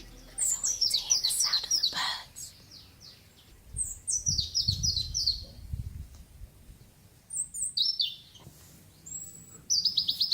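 A songbird singing four short phrases, a few seconds apart. Each phrase is a quick run of high notes falling in pitch.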